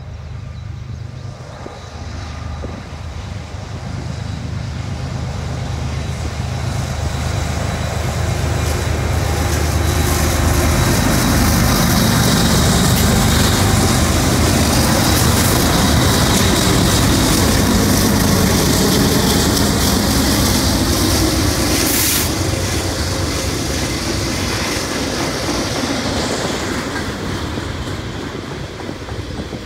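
Freight train passing close by: the diesel locomotives' engines drone louder as they approach and go by. This gives way to the rumble and clatter of tank cars rolling over the rails, with one sharp knock about two-thirds of the way through.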